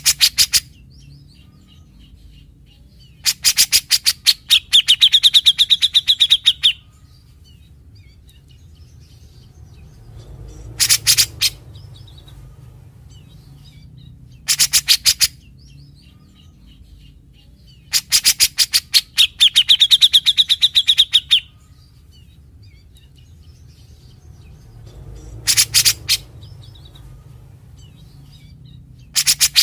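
Grey-cheeked bulbul (cucak jenggot) calling in short bursts of rapid, harsh chattering notes, its characteristic 'besetan', every few seconds. Two of the longer bursts end in a held high whistle.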